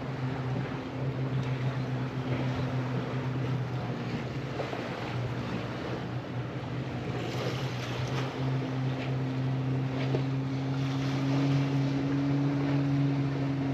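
Motorboat engine droning steadily, growing a little louder in the second half, over wind and water noise.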